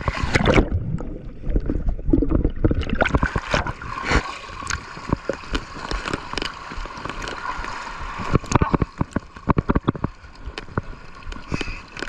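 Water gurgling and sloshing around the camera, with many irregular knocks and clicks.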